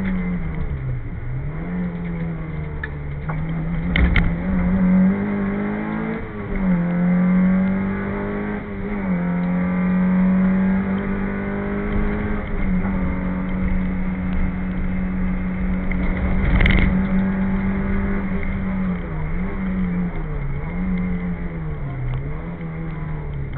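Citroën AX Sport rally car's 1.3-litre four-cylinder engine heard from inside the cabin at full stage pace, the revs climbing and dropping repeatedly through gear changes and lifts for corners. Two sharp thumps stand out, one about four seconds in and one past the middle.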